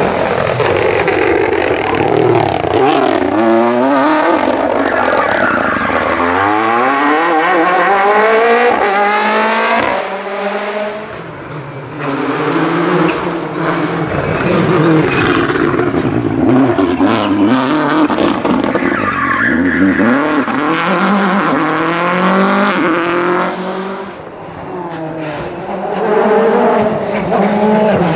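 Rally car engines revving hard, their pitch climbing and dropping again and again as the cars accelerate and shift through the gears, with tyres squealing. The sound drops away briefly twice before the next run of revving.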